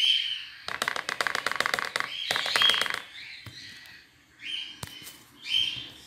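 Caged pet birds chirping: a fast chattering trill for about a second and a half, then short high chirps every second or so, with one small click in between.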